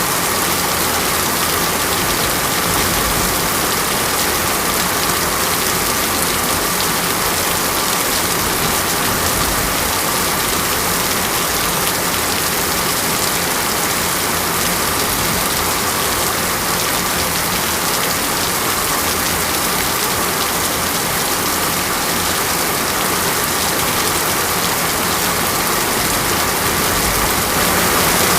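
Steady heavy rain falling, an even hiss of countless drops on a surface, swelling slightly near the end.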